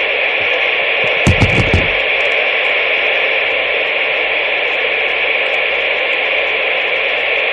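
CB radio static: a loud, steady, band-limited hiss from the receiver's speaker that switches on abruptly, as when a carrier comes up on the channel. It has a few low thumps and clicks about a second and a half in.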